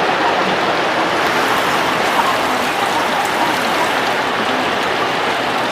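Steady rain falling and pattering on surfaces, an even dense hiss of drops.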